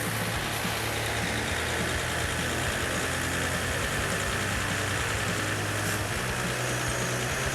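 Logging truck engine running steadily under load.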